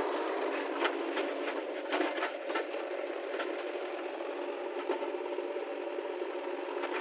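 Diesel engine of the loading machinery running steadily, with no deep bass, and scattered light clicks and clanks over it.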